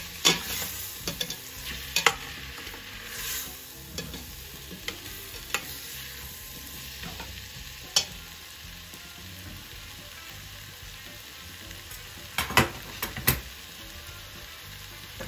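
Potatoes and tomatoes sizzling as they fry in a stainless steel pot while a spoon stirs them. Sharp knocks of the utensil against the metal pot come every couple of seconds, with a quick cluster of knocks near the end; these knocks are the loudest sounds.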